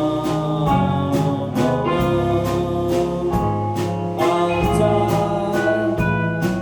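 Live band performing a song: a singer's voice over guitar and a steady drum beat.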